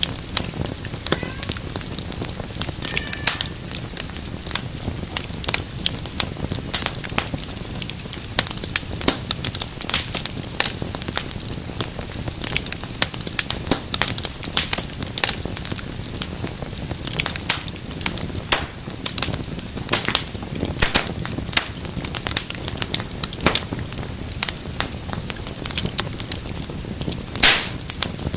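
Fireplace fire crackling, with frequent sharp pops over a steady low rush of flame. One louder pop comes near the end.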